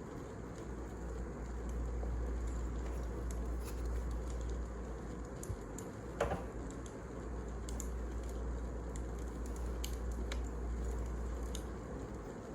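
Wood fire burning in a fireplace, with a steady hiss and scattered small crackles, and one louder pop about six seconds in.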